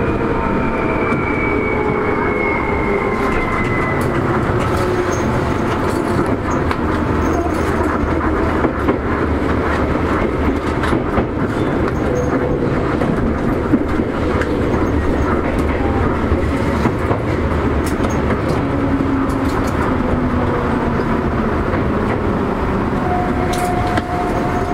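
Seibu 2000-series electric train running, heard from on board: a steady rumble with wheels clicking over rail joints, and a high tone that falls in pitch over the first few seconds.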